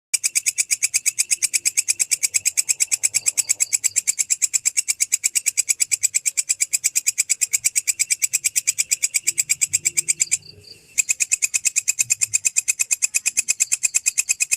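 Singing insect calling in a fast, very even pulse train of about nine chirps a second, high and piercing, with one brief break about ten seconds in.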